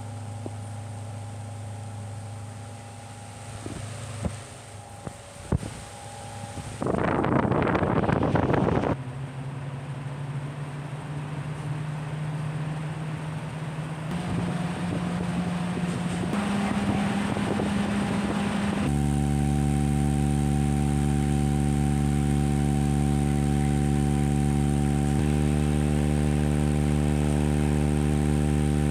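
Mondial Super Turbo VTX electric fan running with a replacement propeller: a low hum, a few clicks, a loud rush of air for about two seconds, then a hum that steps up in pitch as the speed changes and settles into a loud, steady buzzing hum about two-thirds of the way in.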